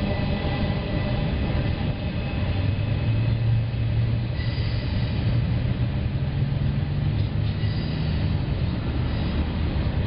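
Steady low rumble of an intermodal freight train's last trailer-carrying flatcars rolling past and the train moving away down the track.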